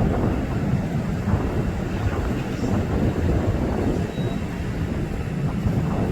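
Jet engine noise of a departing Boeing 767 freighter: a low, noisy rumble that slowly fades as the aircraft climbs away.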